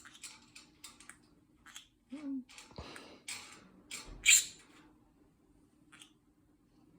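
Small clicks and rustles of a parrot's foraging toy being handled, a quick run of clicks at first and a louder rustle about four seconds in.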